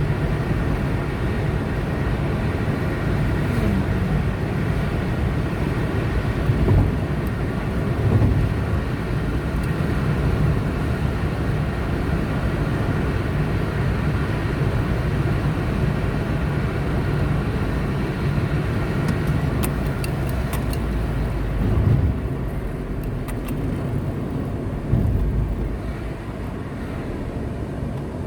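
Car driving at road speed: steady engine and tyre road noise, with a few brief louder swells and a slight drop in level near the end.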